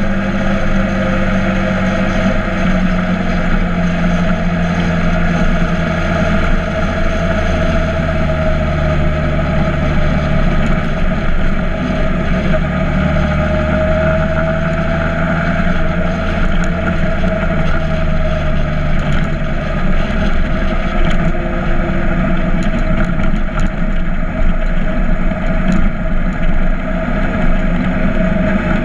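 Motorcycle engine running steadily while riding, its note holding nearly level with slow, slight rises and falls in pitch.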